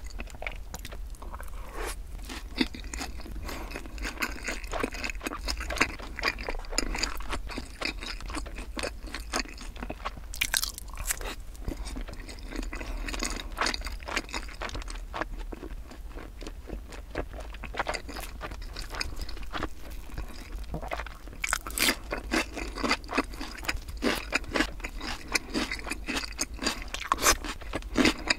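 Chewing on sauce-coated Korean fried chicken (yangnyeom chicken), a continuous stream of crunches, with a run of louder crunches in the last several seconds.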